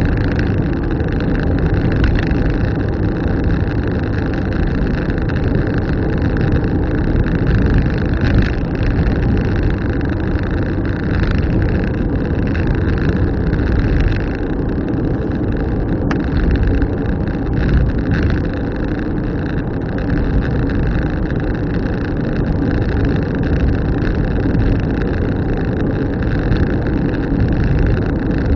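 A car driving along at steady speed: continuous engine and tyre road noise, with a few brief knocks here and there.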